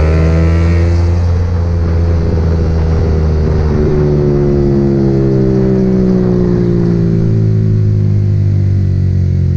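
Motorcycle engine running steadily while riding, with rushing noise over it; the engine note holds fairly even, drifting slightly in pitch and easing down near the end.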